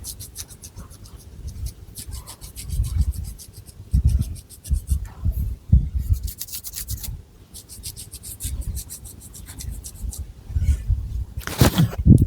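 Long fingernails scratching through thick hair on the scalp, in several quick runs of rapid strokes, with dull rubbing and thumps from the hands moving in the hair.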